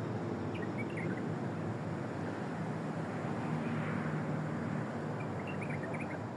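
Steady outdoor background rumble with a low hum, like distant traffic. A few faint, short high chirps come about half a second in and again near the end.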